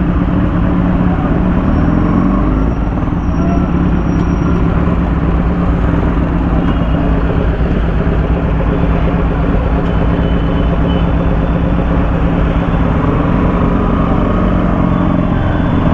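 Kawasaki Z900 inline-four engine with an aftermarket exhaust, running at a steady, even pitch.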